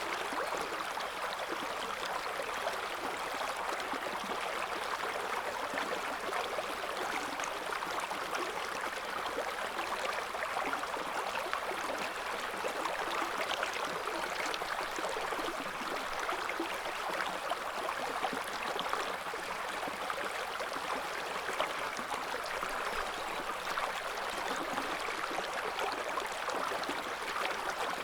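River water flowing steadily over stones, a continuous rushing with fine gurgles and splashes.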